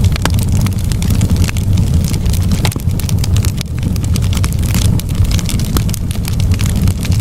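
Campfire crackling and popping in irregular sharp snaps, over a steady low rumble.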